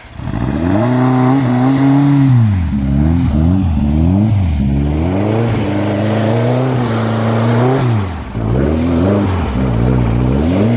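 Air-cooled Volkswagen flat-four engine revved up and down repeatedly under load as the stuck car tries to drive out of the snow.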